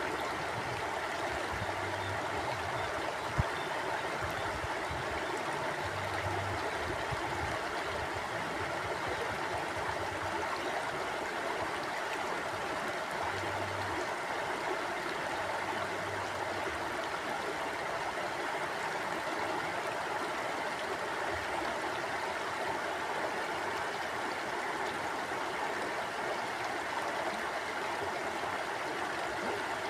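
Flowing stream water rushing and burbling in a steady, unbroken wash, with a single brief click about three and a half seconds in.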